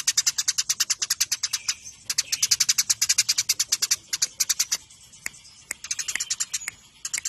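Eurasian tree sparrows in a fighting chatter: fast runs of sharp, high chirps, about ten a second, broken by short pauses, with only a few scattered chirps a little past the middle.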